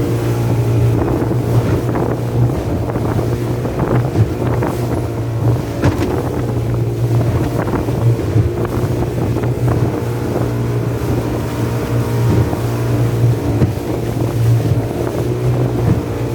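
Motorboat engine running steadily under way, a constant low hum, with wind buffeting the microphone and scattered short knocks.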